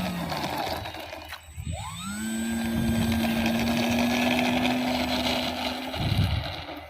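Electric motor and propeller of an RC model B17 biplane whining. The pitch drops off about a second in, spools back up near two seconds, holds steady, then cuts back near the end.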